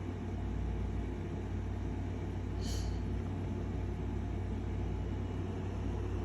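Steady low rumble of outdoor background noise, with one brief high hiss about two and a half seconds in.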